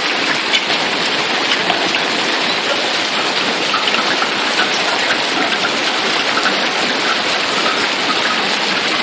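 Heavy rain falling steadily, a dense even hiss flecked with the ticks of individual drops.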